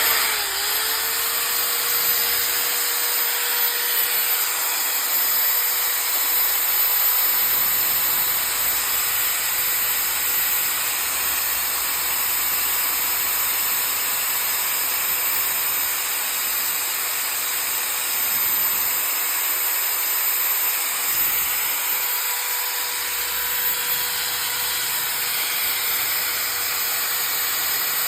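SENCAM 1300W 5-inch angle grinder running steadily, reaching full speed just after the start and then holding a constant high whine with a hiss of air.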